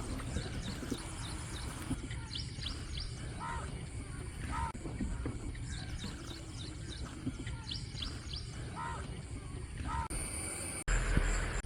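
Birds calling outdoors: short, repeated pitched calls and high chirps over a steady low wind-like rumble, with a brief louder burst of noise and a low thump near the end.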